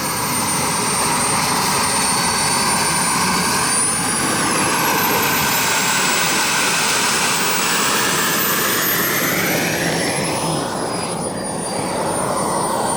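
Radio-controlled model airplane flying overhead: a loud, high-pitched engine whine that rises in pitch about four seconds in, holds, then drops back down after about eight seconds, over a steady rushing noise.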